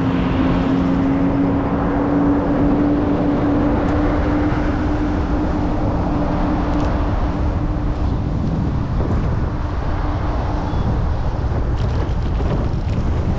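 Wind rushing over the microphone of a moving bicycle, with a steady low engine hum from nearby road traffic that fades out near the end.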